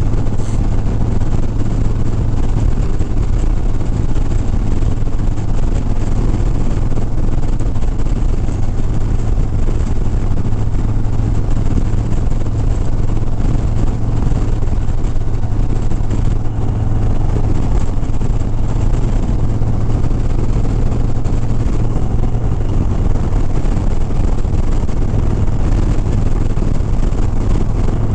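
Harley-Davidson Sport Glide motorcycle's V-twin engine running steadily at highway cruising speed, a constant low drone under road noise, with no change in throttle.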